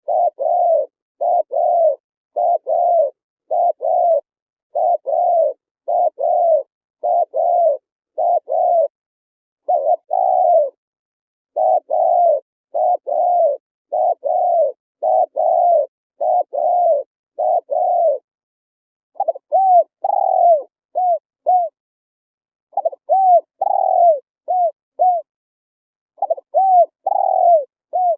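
Spotted dove cooing. Evenly repeated pairs of short arched coos give way, about 19 seconds in, to song phrases of a longer coo followed by two or three short notes.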